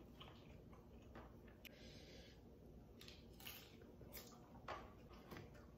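Near silence with faint eating sounds: a few soft clicks and mouth noises as a person chews a bite of fried tempe mendoan.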